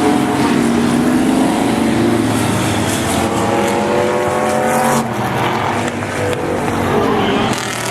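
Engines of several demo race cars or trucks running hard on a speedway track, their pitch rising and falling as they rev and pass. The sound changes abruptly about five seconds in.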